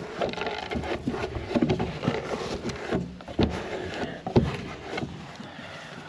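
A goat feed pan being cleaned out: irregular scraping with several sharp knocks, the loudest about three and a half and four and a half seconds in.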